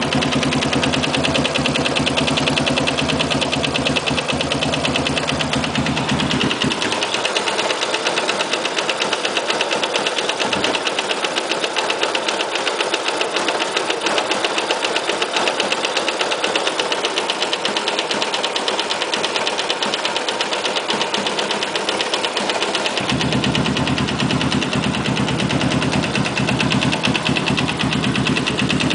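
Motorcycle single-cylinder engine idling with a fast, steady knocking tick running through it, the knocking sound that the owner is worried about. Its deep part thins out for a stretch in the middle, then comes back.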